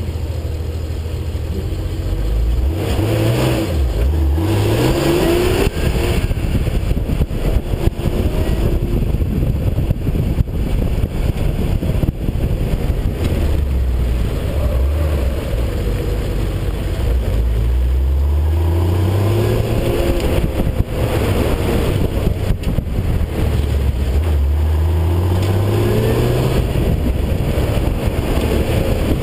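Porsche engine accelerating hard from a standstill, its pitch climbing in quick steps through the gears a few seconds in. Later it rises and drops again several times as the car speeds up and slows between turns.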